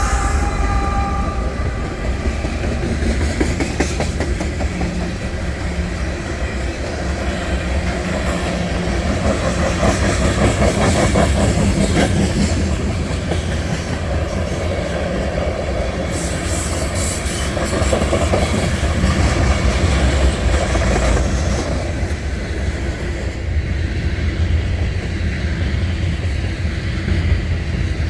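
Slow-moving train rolling past: a steady low rumble, with wheels clicking over the rail joints.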